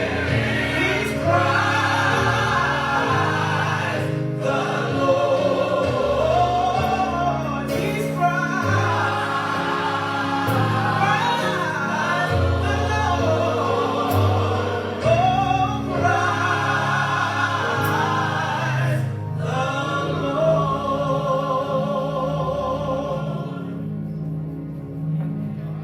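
Gospel choir singing with band accompaniment and a steady bass line, the singing ending and the music fading down about 20 seconds in.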